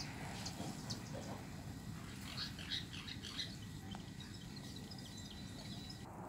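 Small birds chirping: short, high calls in scattered clusters, over a low, steady background noise.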